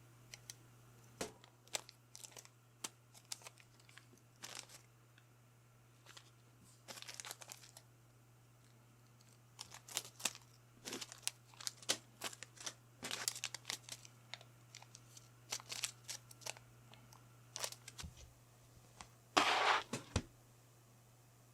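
Small clicks, taps and brief rustles of small parts and packaging being handled on a workbench, with a longer crinkling rustle of plastic near the end, over a faint steady hum.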